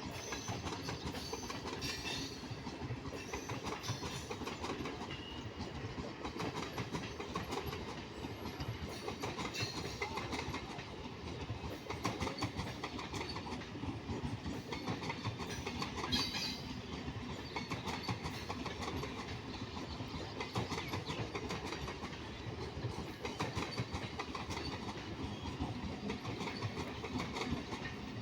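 Indian Railways train running along the track, its wheels clattering steadily over the rails, with a few brief louder high-pitched rattles.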